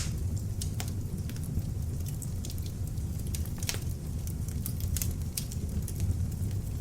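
Beech-wood log fire burning in an open fireplace: a steady low rumble of flame with irregular sharp crackles and pops, one louder pop a little before four seconds in.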